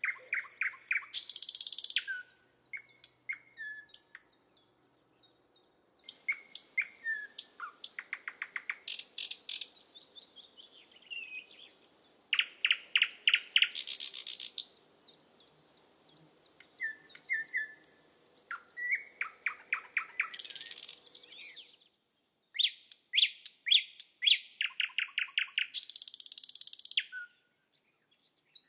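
Sikatan londo flycatcher singing: phrases of fast, rattling trills of repeated notes mixed with short whistled notes and harsh buzzy calls, broken by brief pauses.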